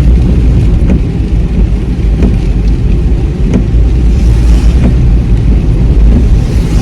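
Steady low road and engine rumble heard inside a moving car's cabin, driving on wet roads in heavy rain.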